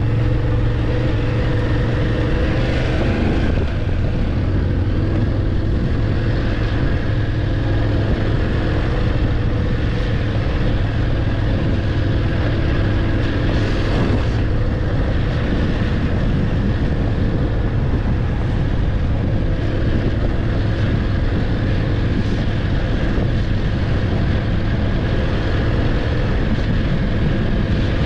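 BMW F850GS parallel-twin engine running steadily under way, its note shifting about three seconds in.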